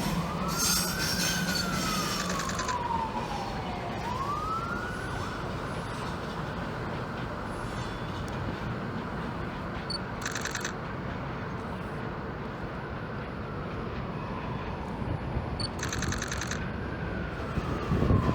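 Emergency vehicle siren wailing. Its pitch rises quickly and falls slowly twice, then holds a high note for about ten seconds before falling away near the end.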